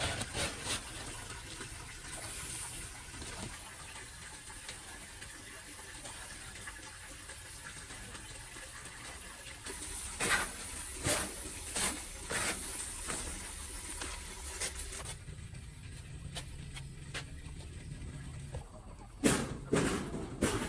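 Water running steadily, with scattered knocks and clatters in the second half.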